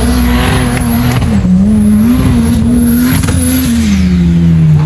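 Off-road vehicle motor running at a wavering pitch that falls near the end, with a high whine rising and falling above it.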